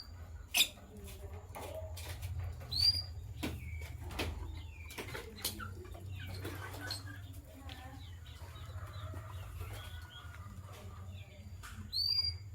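Lovebirds calling: sharp high chirps near the start, about three seconds in and near the end, with softer twittering between them. Short clicks and rustles run through it over a steady low hum.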